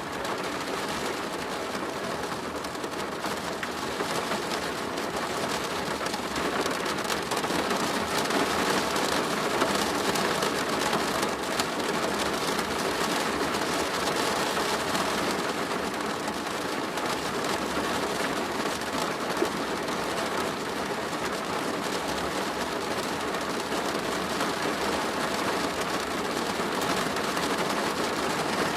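Steady rain drumming on a plastic roof, a dense continuous patter of drops.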